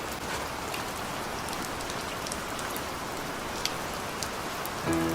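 Steady rain falling on a surface, with scattered sharp drop ticks. Music comes in just before the end.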